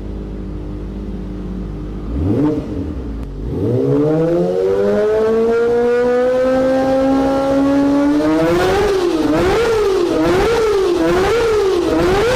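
Kawasaki Ninja ZX-25R's 249 cc inline-four idling, blipped briefly, then revved in one long rising pull to a high wail. Near the top the revs rise and fall over and over, about every 0.6 s, as it is held at the top of its range.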